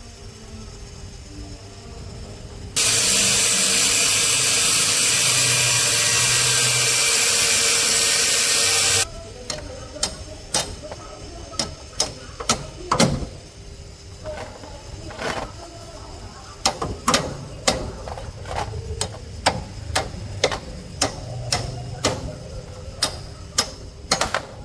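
A loud, steady hiss of a workshop tool that cuts in suddenly, runs for about six seconds and stops abruptly. It is followed by a long run of sharp, irregular metallic clicks and taps as parts are worked on.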